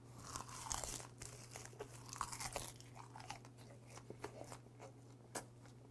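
Close-miked chewing of a wrap of plain dried laver (gim) with gwamegi: soft, irregular crunching clicks, busier in the first three seconds, with one sharper crunch near the end.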